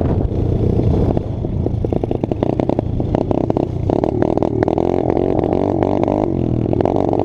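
Dirt bike engine running under a rider, revving up and down with the pitch rising and falling repeatedly in the second half, over a rapid clatter.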